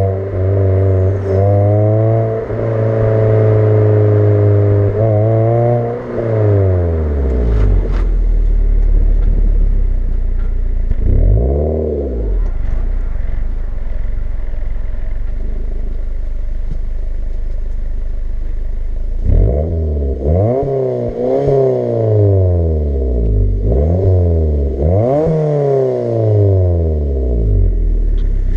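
Suzuki Swift engine through a non-resonated sports exhaust. It is revved and held high for several seconds, then drops back to a low idle, with one quick blip near the middle. Near the end it is revved up and down several times in a row.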